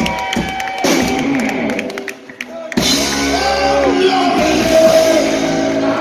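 Loud rock music with singing in a large room; the sound drops away briefly about two seconds in, then comes back in full.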